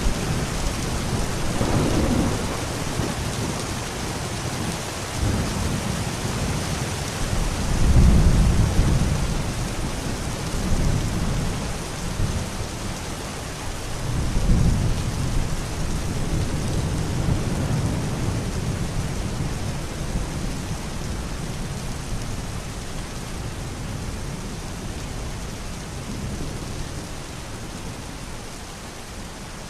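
Steady rain with rolling thunder: low rumbles swell and fade several times, the loudest about eight seconds in and another around fourteen seconds, and the thunder dies away toward the end while the rain keeps falling.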